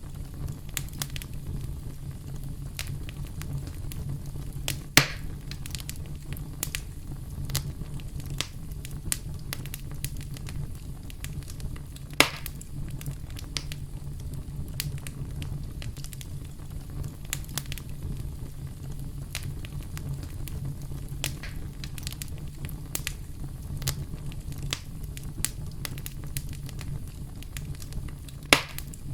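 Campfire crackling: a steady low rumble of burning under frequent small pops and snaps, with three louder pops spread through.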